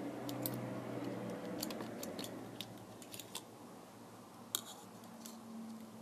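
Small sharp clicks and taps of hand tools working on a Kindle Fire tablet's plastic housing and screen assembly, irregularly spaced, over a faint low hum that fades away in the first couple of seconds.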